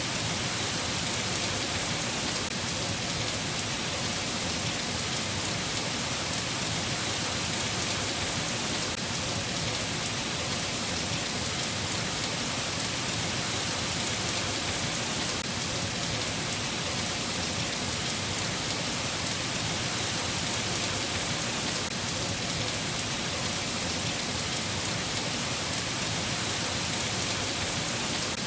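Steady rain falling: an even, unbroken hiss with no pauses or separate events.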